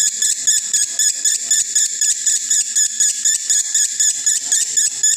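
Male lovebird in breeding condition chattering in a rapid, even run of short shrill chirps, about eight a second, the continuous 'konslet' style of song.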